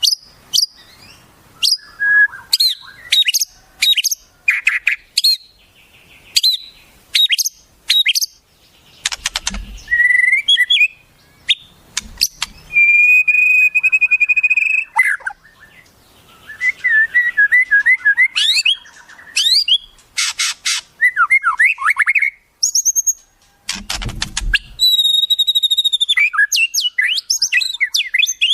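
Wild songbirds calling: a rapid run of sharp chirps, short whistled glides and trills, with one steady buzzy trill about halfway through. Two short low thumps sound, about a third of the way in and again near the end.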